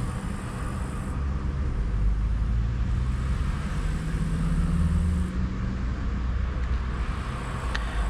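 Steady low rumble of road traffic, with faint engine hum drifting slightly in pitch.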